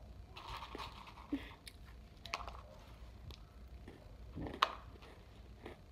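Someone chewing a mouthful of hot cocoa Goldfish crackers, with scattered small crisp crunches and clicks and one sharper click about four and a half seconds in.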